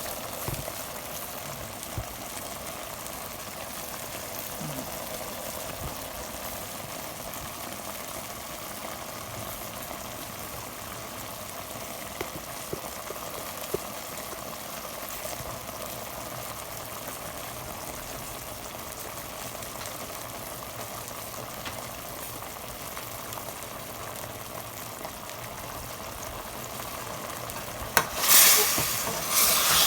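Chicken adobo simmering in a pan with its sauce reducing: a steady bubbling sizzle with a few faint ticks. A loud burst of hissing comes near the end.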